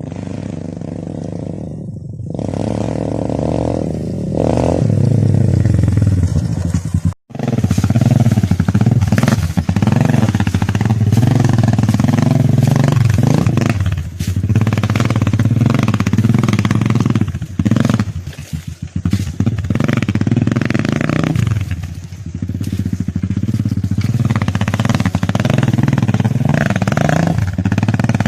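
Motorcycle engine running under way, revving up and down as the throttle is opened and closed, with several brief dips in between.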